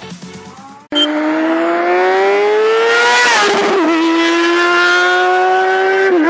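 A high-revving vehicle engine accelerating hard, starting abruptly about a second in. Its pitch climbs steadily, drops sharply at a gear change about three and a half seconds in, then climbs again, with another shift near the end.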